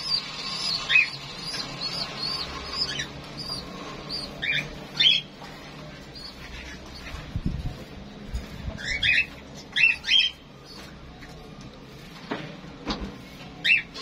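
Small cage birds chirping in short, scattered calls, with a few dull knocks around the middle and again near the end.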